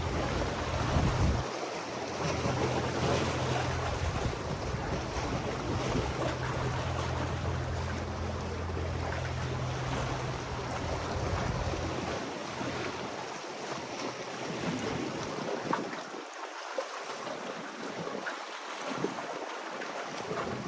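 Wind buffeting the microphone over a steady wash of waves. The low wind rumble eases about two-thirds of the way through, leaving mostly the surf.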